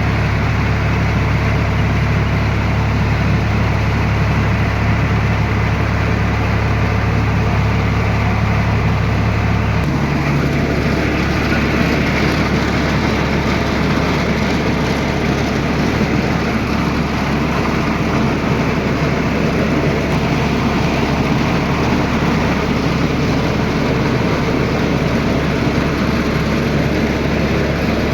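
Tractor's diesel engine running steadily while driving a rice mill. About ten seconds in the note changes abruptly: the low hum drops and the sound turns rougher, as the engine speed or the mill's load shifts.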